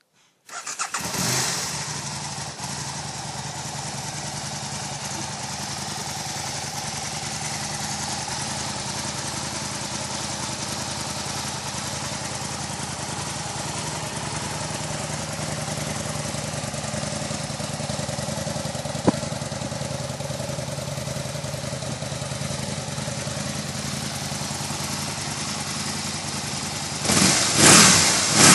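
Aprilia Tuono motorcycle engine starting about half a second in, swelling briefly, then settling into a steady idle. Near the end the throttle is blipped twice in quick succession.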